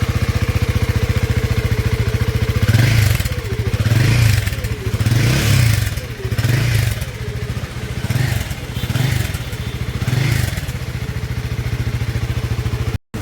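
Royal Enfield Guerrilla 450's single-cylinder engine running through a Powerage slip-on end can, with the stock catalytic converter and dB killer still fitted. It idles steadily for a few seconds, then is blipped up and back down in a series of short revs, and sounds not that loud. It cuts off abruptly near the end.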